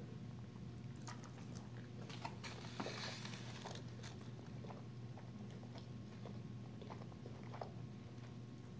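A person chewing a bite of fried chicken tender and waffle, with faint crunches in the first few seconds, over a low steady hum.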